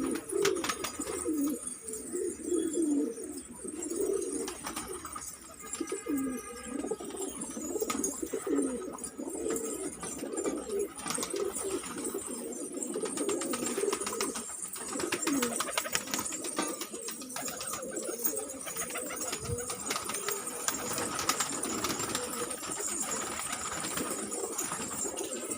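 Domestic pigeons cooing over and over, low throaty warbling calls following one another.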